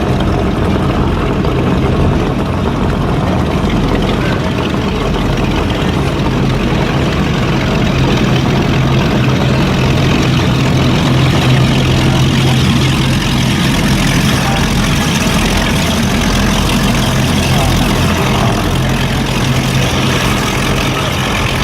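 Performance powerboat engines running at low speed with a steady, deep rumble and a constant low drone that swells a little midway.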